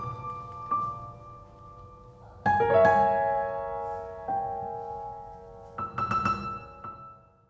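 Piano playing a slow introduction: sustained chords struck every second or two, with a few quick higher notes near the end, then fading away.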